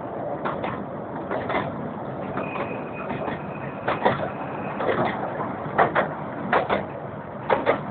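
Steam railway train running along the line, its wheels knocking over rail joints in quick pairs about once a second over a steady rumble, with a faint thin whine for a couple of seconds near the middle.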